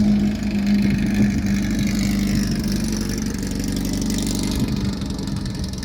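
An engine running steadily at an even speed, with a strong, constant low hum.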